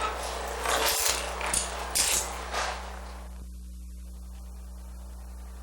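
A bunch of keys jangling in several short shakes over the first three seconds, then only a steady low electrical hum.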